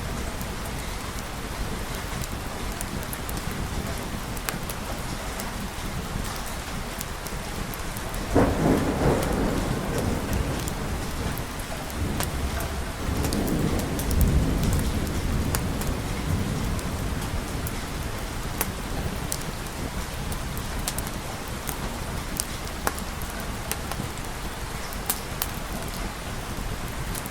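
Steady heavy rain, with a sudden thunderclap about eight seconds in and a second, lower rolling rumble of thunder a few seconds later.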